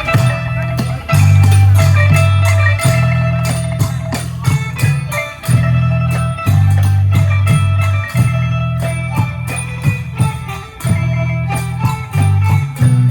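Isan pong lang folk ensemble playing: quick repeated melody notes over a steady low bass line and a regular drum beat.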